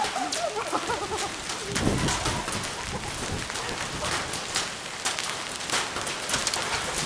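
Hail and rain pelting down, hailstones hitting hard surfaces in a rapid irregular scatter of sharp clacks over a steady hiss of rain.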